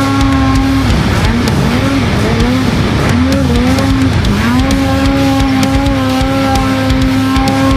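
Snowmobile engine running at high revs. Its pitch drops and wavers about a second in and again over the next few seconds, then climbs back and holds steady.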